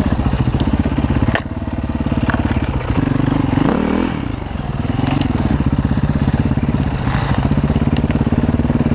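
Enduro dirt bike engine running under throttle. The revs drop briefly about a second and a half in, then climb and fall away again around the middle before it settles back to a steady run.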